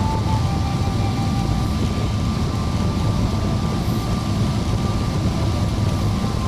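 Steady rumble and rush of airliner cabin noise inside a Boeing 777-300ER, heaviest in the low end, with a faint steady whine running through it.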